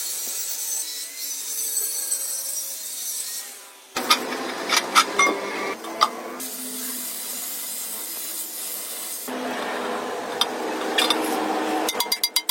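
Rasping, rubbing hand-tool work with scattered clicks and knocks, in a few segments that start and stop abruptly. Near the end a fast, even run of clicks begins.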